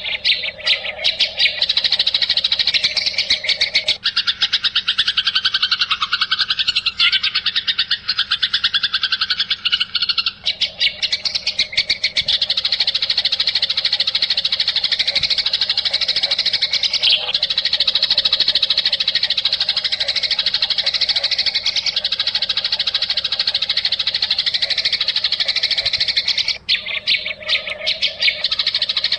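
Continuous rapid chattering and trilling of songbirds, a 'masteran' tutoring track played for competition songbirds to copy. The calls are high-pitched and dense, with a lower trilling voice joining about four seconds in and dropping out near ten seconds.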